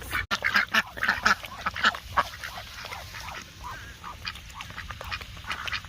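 Several ducks quacking in quick, short calls, busiest for the first two seconds and then more scattered.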